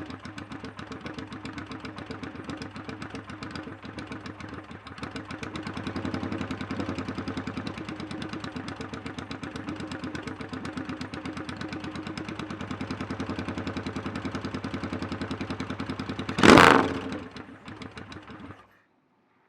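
Freshly rebuilt Yamaha XS650 parallel-twin engine, bored to 700cc with a 277-degree rephased crank, idling on its first start-up. It is blipped once sharply near the end, then shuts off.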